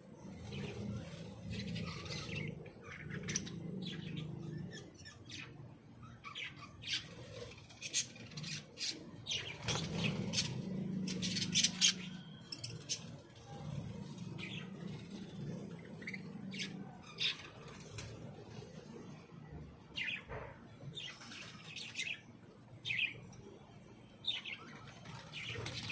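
Many caged birds in an aviary chirping and calling over one another: short, sharp chirps and quick falling squawks scattered throughout, over a low steady hum.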